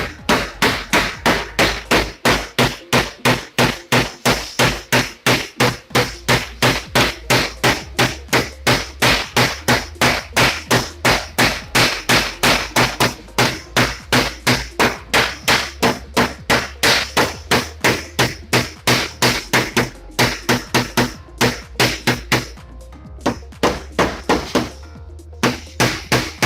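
A hammer striking car body metal in quick, even blows, about three a second, as a dent is worked out of a panel. The blows pause briefly a little after the twenty-second mark and again near the end.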